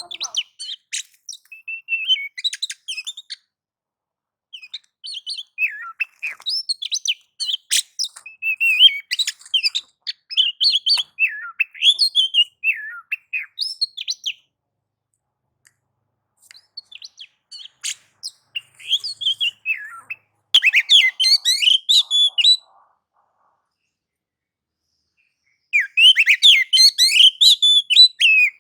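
Oriental magpie-robin (kacer) singing fast, varied phrases of chirps and whistles in the agitated 'nagan' style. The song comes in four bursts with pauses of one to three seconds between them.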